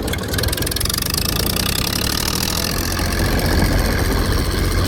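Tractor engine running steadily, a little louder from about three seconds in.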